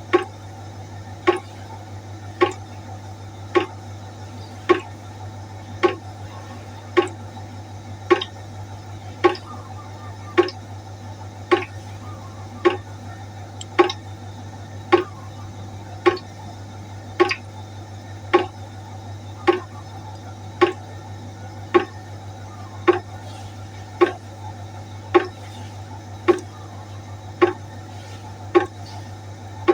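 Water droplets falling one at a time into a pot, a sharp drip about once a second in an even rhythm, over a steady low hum.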